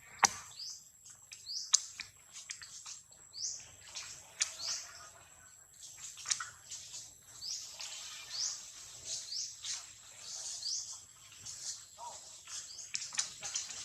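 A bird chirping over and over, short high notes that rise in pitch, roughly one a second, with a few scattered clicks and a steady thin high tone behind.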